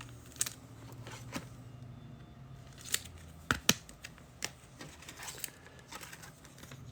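Trading cards and pack wrappers being handled: faint scattered clicks and rustles, with a few sharper snaps a little past the middle.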